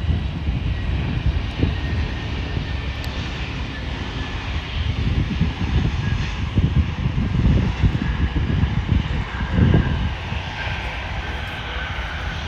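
Jet airliner landing: a loud, uneven low engine rumble with a thin steady high whine, on a touchdown called pretty smooth.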